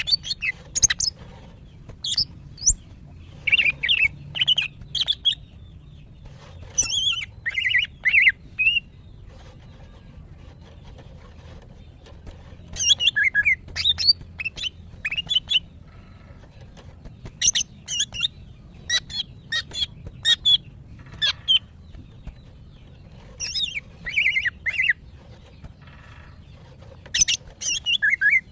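A female green leafbird calling in short bursts of rapid, high chirps and trills, with pauses of a couple of seconds between phrases. These are the excited calls of a hen in breeding condition calling for a male.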